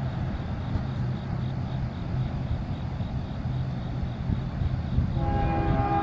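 Low, steady rumble of an approaching CSX freight train led by GE diesel locomotives. About five seconds in, the lead unit's horn, a first-generation Nathan K5HLL five-chime air horn, starts sounding a sustained chord.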